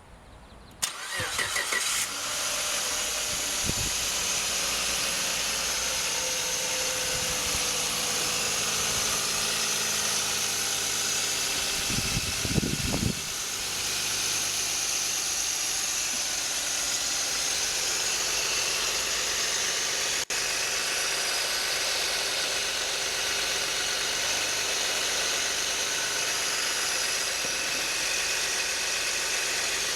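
Suzuki H27A 2.7-litre V6 engine cranked and starting about a second in, then idling steadily. A brief louder low burst comes near the middle.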